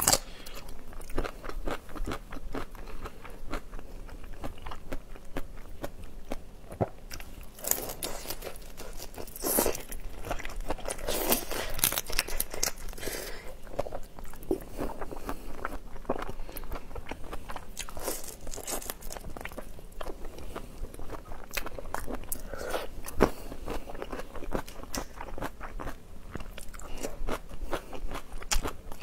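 Close-miked eating: crunching bites and chewing with many small, irregular wet crackles as raw marinated shrimp and green chili pieces are eaten.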